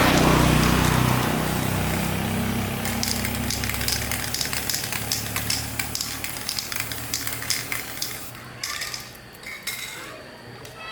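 A motor running, its hum fading away over the first few seconds, followed by dense crackling and ticking that thins out toward the end.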